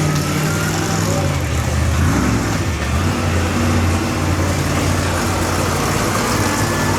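Stone Crusher monster truck's engine revving hard during a donut run, its pitch dipping and climbing back about two seconds in, then holding high.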